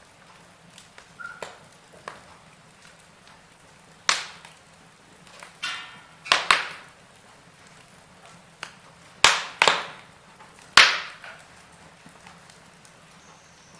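Wood fire in a fireplace crackling, with a handful of loud, sharp pops over a quiet low background, several of them in quick pairs.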